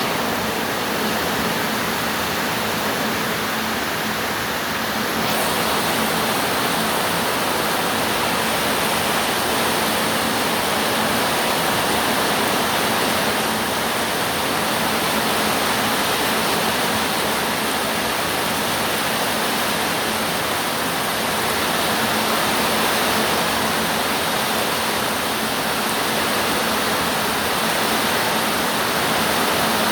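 Heavy rain falling, a steady dense hiss that swells a little about five seconds in.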